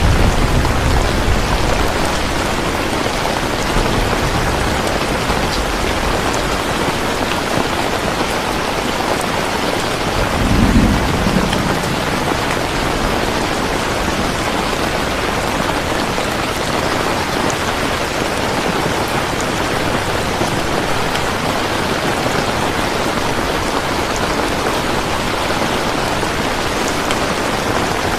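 Steady heavy rain, a constant even hiss. Low thunder rumbles near the start and fades over the first few seconds, and a short low rumble comes about eleven seconds in.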